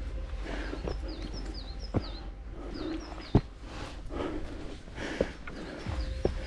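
A small songbird calling in short high chirps, each a quick dip and rise in pitch, given in runs near the start, in the middle and near the end. Under it, a hiker's footfalls and knocks on the climb, the sharpest knock about three and a half seconds in.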